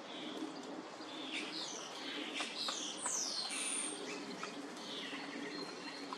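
Common starlings calling: a run of sliding whistles and chirps, busiest in the middle, with scattered sharp clicks.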